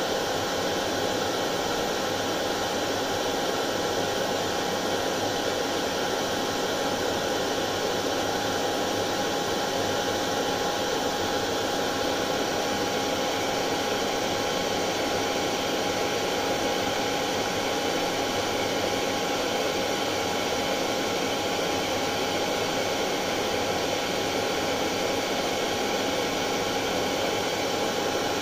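Hair dryer running steadily, a continuous even rushing of air with a faint steady hum from the motor.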